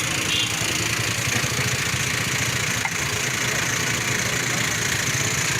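An engine running steadily, with a low pulsing hum under a constant hiss.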